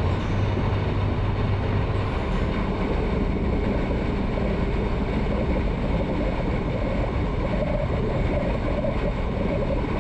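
Motorcycle running at road speed, heard from the bike: a steady mix of engine and rushing wind and road noise, with a low engine drone that eases off about two seconds in.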